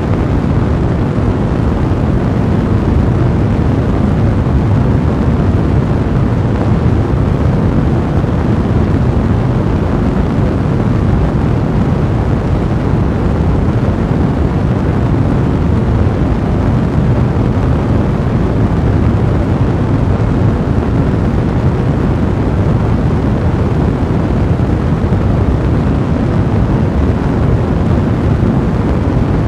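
Fire in a fireplace burning steadily: a loud, dense, low rumbling noise with fine crackling texture, even throughout.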